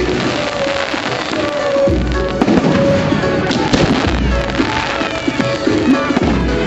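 Firework display: deep booms of shells bursting about every two seconds among sharper bangs and crackles, over music played loud.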